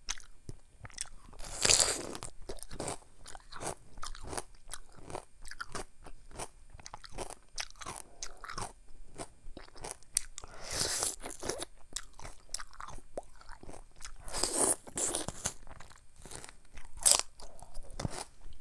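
Close-miked crunching bites and chewing of a mini Korean melon (chamoe): a steady run of small wet clicks, with louder crunching bites about two seconds in, around eleven and fifteen seconds, and a sharp one near the end.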